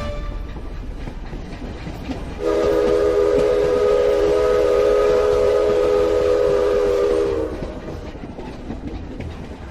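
Train horn sounding one long chord of several notes over the rumble of a rolling train; the rumble fades away after the horn stops.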